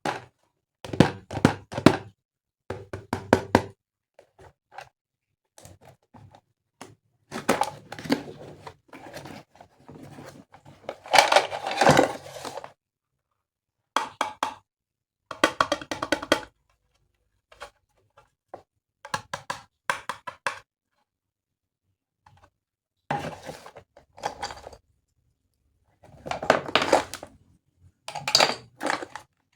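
Plastic toy parts knocking and clattering in irregular handling bursts, with short silent gaps between them, as a toy train set is put together.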